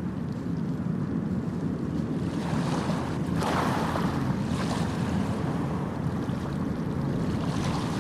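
Sea waves making a continuous rushing wash, with a wave surging and breaking about three seconds in and another near the end.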